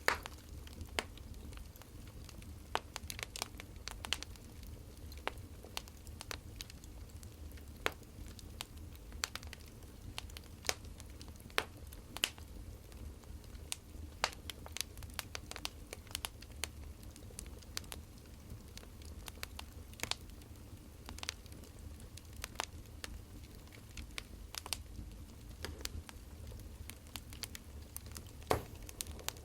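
Burning firewood crackling: irregular sharp pops and snaps over a low, steady rumble.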